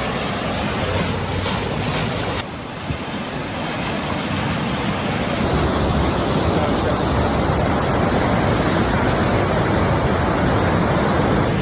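Ocean surf washing and breaking, with wind rushing over the microphone. The noise dips briefly about two and a half seconds in, then comes back fuller and a little louder.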